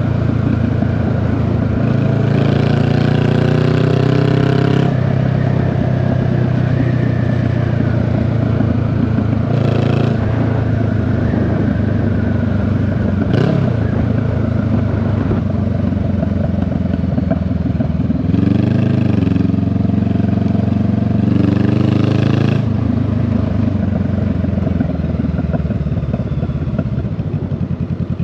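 Honda Rebel 500's parallel-twin engine and exhaust on the move, climbing in pitch as it revs up about two seconds in, then easing off. It revs up again around eighteen seconds in, with a single sharp click about halfway through.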